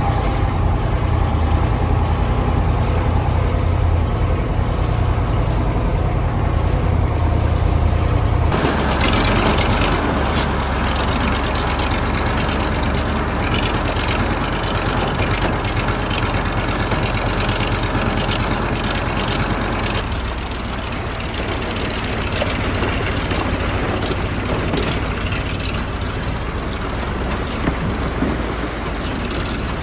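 1985 KAMAZ 4310 6x6 army truck's V8 diesel engine running while the truck drives off-road. The steady engine note changes abruptly about eight seconds in and again about twenty seconds in.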